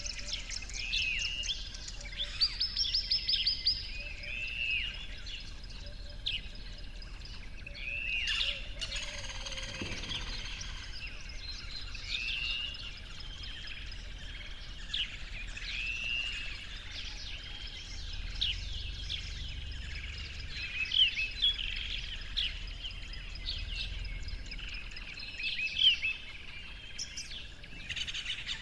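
Birds chirping and calling: many short, repeated high chirps, several birds overlapping. About a third of the way in, a brief sound sweeps down in pitch.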